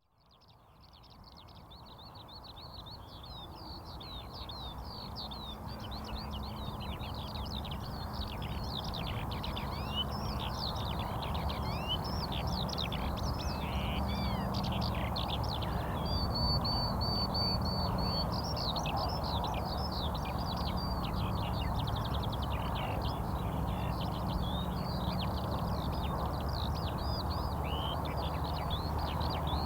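A dense chorus of many birds chirping and singing together, fading in over the first several seconds, over a steady low background noise.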